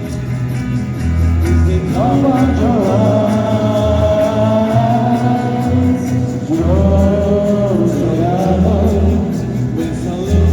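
Live band playing an oldies rock song: a singer holds long sung lines over strummed guitar and a pulsing bass.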